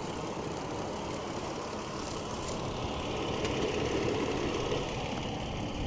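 2008 Toyota Tacoma's 4.0-litre V6 idling steadily, heard from the open engine bay, swelling slightly for a moment midway.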